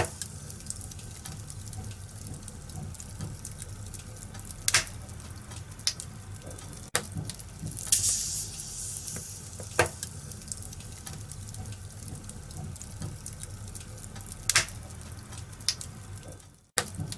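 Wood fire in a fireplace crackling: scattered sharp pops every second or few over a steady low rumble of the flames. The sound drops out briefly just before the end.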